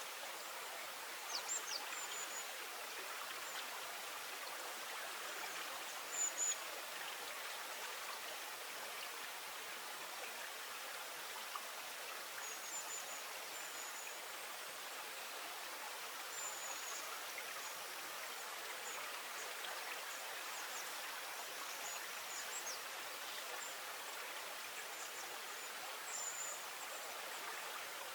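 Steady rushing murmur of flowing water, with short high chirps every few seconds from small creatures in the marsh.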